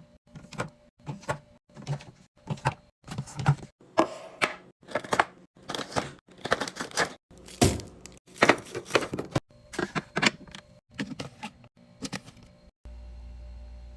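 Rapid, irregular clicks, knocks and clatters of packaged food and drink items being handled and set down while restocking a fridge. They stop suddenly near the end, leaving a steady low hum.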